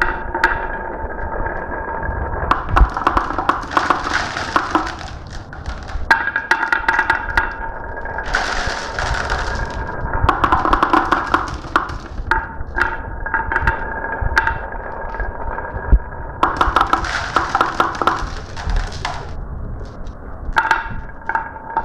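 Glass marbles running down a marble run: many sharp clicks and clacks, with stretches of rolling rattle lasting a second or two, over a steady tone.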